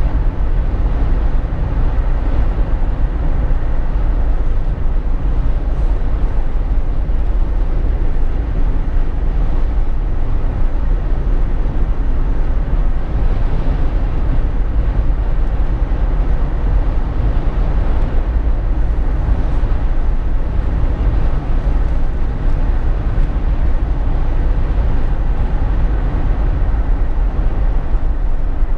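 Steady road noise inside a Jeep Wrangler JK's cabin while driving on the highway: an even, deep rumble of tyres, engine and wind.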